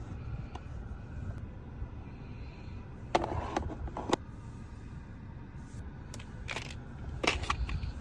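Items being handled during car organizing: a few short bursts of rustling and clicking, about three seconds in, again around six seconds and near the end, over a low steady rumble.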